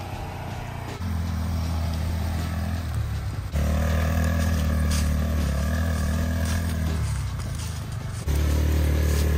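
Off-road vehicle engines running steadily at low speed on a trail. The level jumps up abruptly three times.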